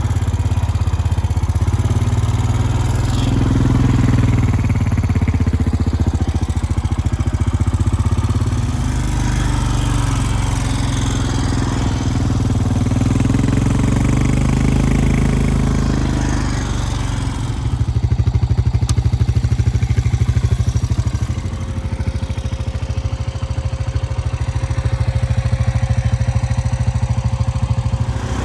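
An engine running steadily, changing in sound about 17 seconds in, with a faint steady whine joining a few seconds later.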